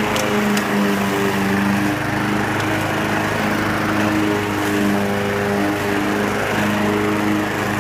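Honda walk-behind lawn mower's single-cylinder four-stroke engine running steadily, with a couple of light ticks in the first second.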